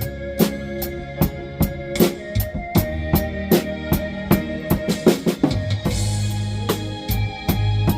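Drum kit played live over a blues backing track with a bass line: a steady beat of bass drum, snare and cymbal strokes. A quick fill about five seconds in leads into a cymbal crash.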